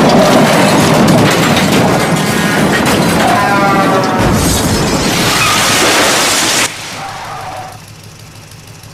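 Explosion and crash sound effects: a loud, dense roar with heavy thuds, dropping suddenly to a quieter rumble about two-thirds of the way through.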